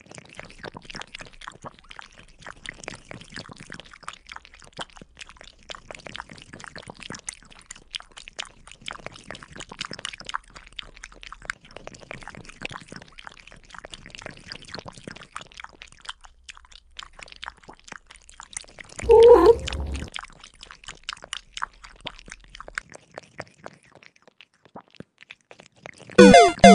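Kittens licking yogurt off a glass pane: a continuous patter of quick, wet tongue clicks and smacks. About three-quarters of the way through there is one short, louder pitched sound, and music starts just before the end.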